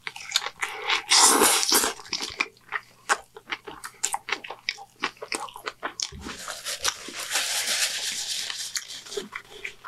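Close-miked chewing of a triple Whopper: many short wet mouth clicks and crunches. There is a stretch of louder rustling about a second in, and a longer one from about six to nine seconds in.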